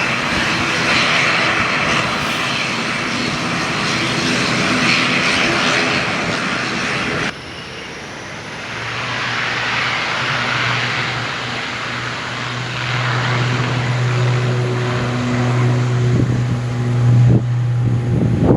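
Aircraft engines running loudly. About seven seconds in, the sound cuts abruptly to a different aircraft whose steady low drone grows louder toward the end.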